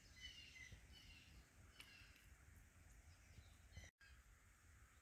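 Faint songbirds singing: a series of short chirps and whistled notes over a low rumble of wind, with the sound cutting out for a moment near the end.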